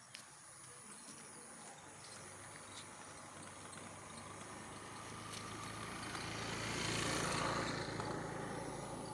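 A motor vehicle passing, its engine and road noise growing louder to a peak about seven seconds in and then fading away.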